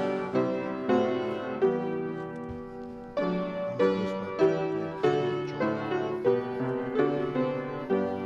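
Piano playing an offertory: chords and melody notes struck about twice a second, each ringing and fading before the next.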